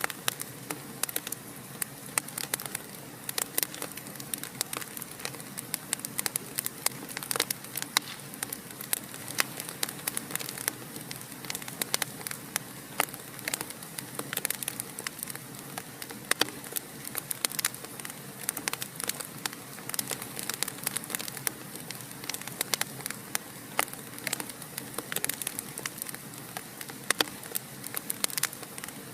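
Wood fire in a fireplace crackling, with many small, irregular pops and snaps over a steady hiss.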